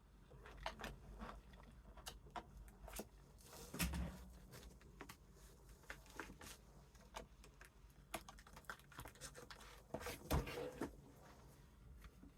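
Faint handling noises from crafting materials: scattered light clicks, taps and rustles of paper and plastic, with two louder rustling bursts, about four seconds in and near ten seconds.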